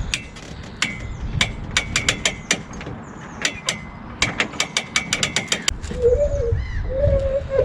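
A metal ratchet clicking in quick irregular runs, each click with a short ringing metallic note. About six seconds in the clicking stops and a wavering, pitched call begins.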